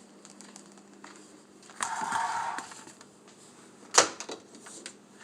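Kitchen handling sounds: a brief scraping rustle about two seconds in, then a single sharp click a couple of seconds later, the loudest sound, over a faint steady hum.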